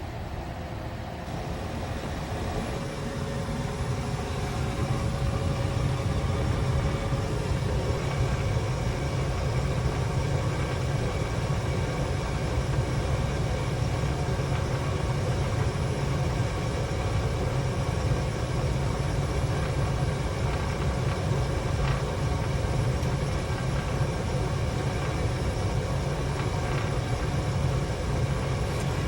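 Rheem RGPR two-stage gas furnace starting up and running: a steady hum with a faint steady whine, swelling over the first five or six seconds and then holding even.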